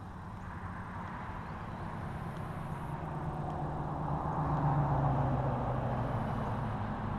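Radio-controlled stadium trucks running on the track, their motor and tyre noise growing louder and peaking about five seconds in as they pass close.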